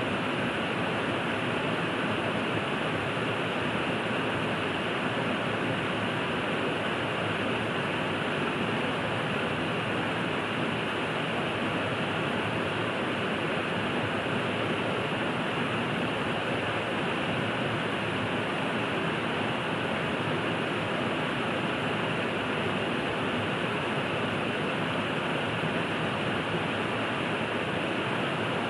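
A river running steadily, a constant even rush of flowing water with no breaks.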